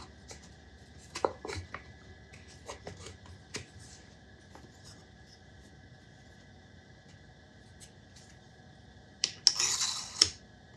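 Small workshop parts being handled and fitted together by hand: scattered light clicks and taps, then a quiet stretch, then a short scraping rub with a couple of clicks about nine seconds in as a piece is slid into place.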